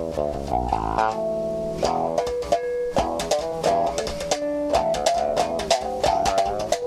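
Fretless bass guitar played through an Eventide H9 harmonizer effects pedal: a run of plucked notes and slides, the notes ringing into one another under the effect.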